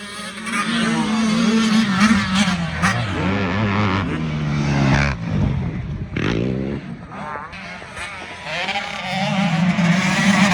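Several motocross race engines running at once, revving up and dropping back as the riders work the throttle and shift, their pitches overlapping and rising and falling. The sound eases a little about two-thirds through, then builds again.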